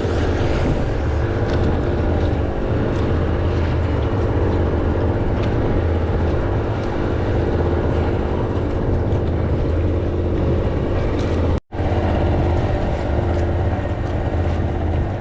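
An engine runs steadily, giving a constant low hum with no change in speed. The sound cuts out completely for a split second near the end.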